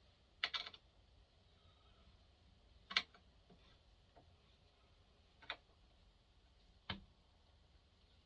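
Light clicks and taps of the full wrap handle being handled against the chainsaw body during a test fit: a short rattle about half a second in, then single sharp clicks about three, five and a half and seven seconds in, the last with a dull knock.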